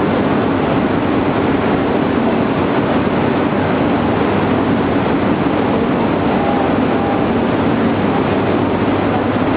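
Shinkansen train noise: a steady, loud rush with a low hum underneath, without any distinct clunk.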